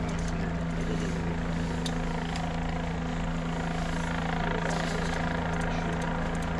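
Helicopter running with a steady, even drone that holds level throughout.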